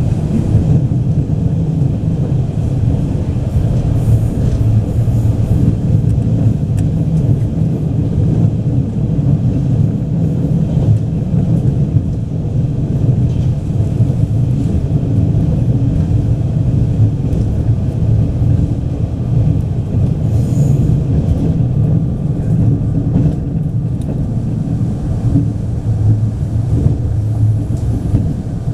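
Running sound of a DR3000 diesel multiple unit express heard from on board at speed: a steady low rumble of the diesel engines and wheels on the rails.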